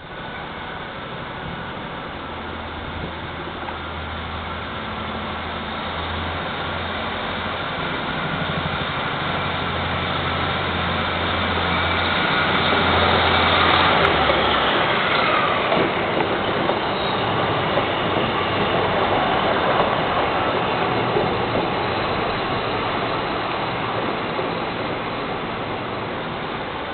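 Two coupled Class 153 diesel multiple units with underfloor diesel engines running past. A low engine hum and wheel-on-rail noise build to a peak about halfway, where the engine hum drops away with a falling tone. The rail noise then slowly fades.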